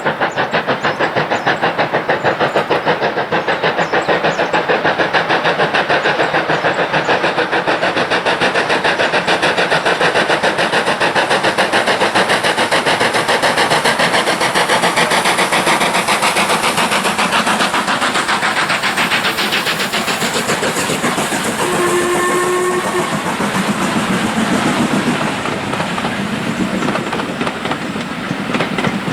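Steam locomotive working hard as it passes, its exhaust beats fast and even. A short whistle blast sounds about three-quarters of the way through, then the beats fade into the clatter of carriage wheels over rail joints.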